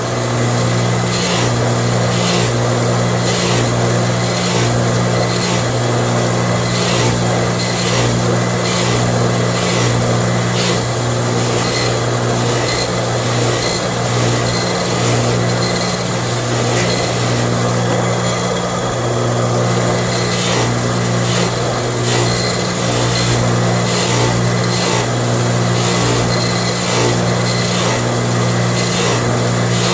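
Power tool's motor running steadily, with a regular scraping stroke a little more than once a second.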